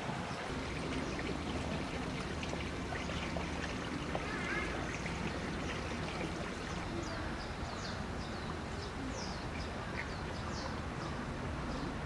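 Steady outdoor rushing background, with a small bird giving short, high, falling chirps over and over in the second half.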